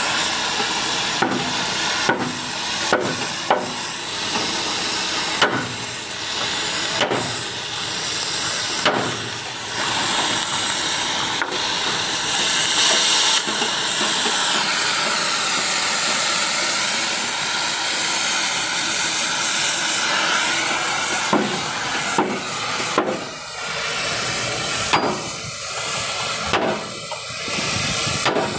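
Steady loud hiss with scattered sharp knocks, a few a second at times and uneven, typical of metal being struck during riveting work on a truck.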